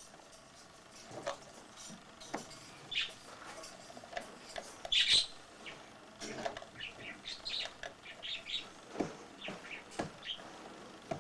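Small cage birds chirping faintly now and then, with a cluster of chirps past the middle, mixed with scattered light taps of a baby's hands on a plastic frisbee and wooden floor.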